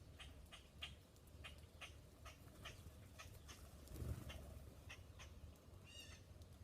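Faint, short, high bird chip notes repeated two or three times a second, with a brief, higher call about six seconds in, over a low steady background rumble.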